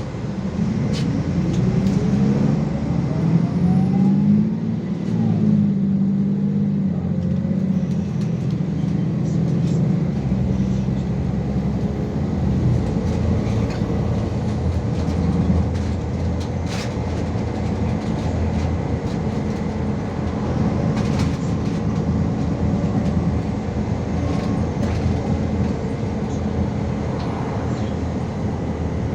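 City bus heard from on board, pulling away with a whine that rises over the first few seconds, then running steadily with a deep road rumble and a few short rattles and knocks.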